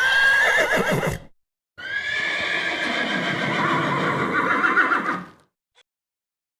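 Two high, quavering animal calls: a short one, then after a brief gap a longer one lasting about three and a half seconds.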